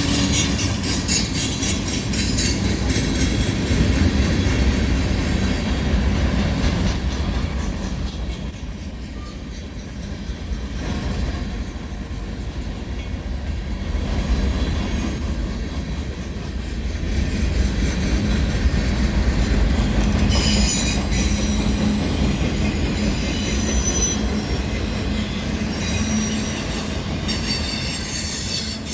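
CN freight train rolling past: a steady low rumble of cars and wheels on the rails, with thin high-pitched wheel squeal in the last third.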